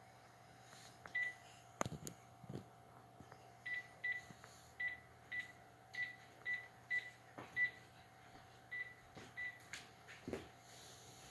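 A series of short, high, steady-pitched beeps, roughly two a second, with a few soft knocks in between.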